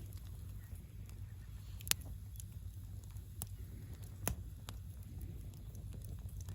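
Campfire crackling: scattered sharp pops of burning wood, two louder ones about two and four seconds in, over a low steady rumble.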